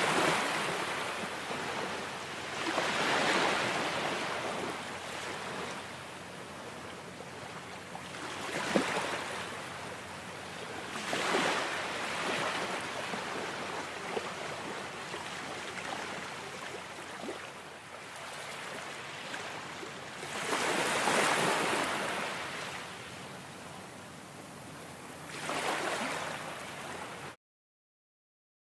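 Ocean waves washing on a shore, the surf rising and falling in surges every few seconds. The sound cuts out completely for about a second and a half near the end.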